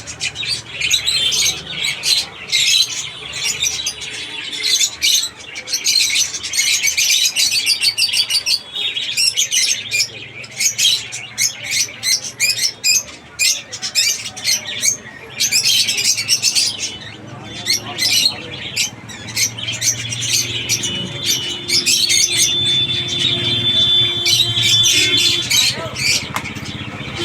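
Many caged pet birds chirping and squawking together in a dense, rapid chatter that keeps on without a break.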